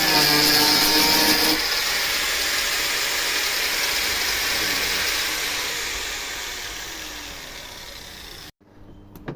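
Power tool running loudly, then fading away over several seconds and cutting off abruptly near the end.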